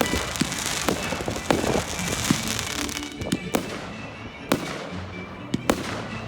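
Fireworks going off: dense crackling with many sharp bangs for about three seconds, then a handful of separate loud bangs.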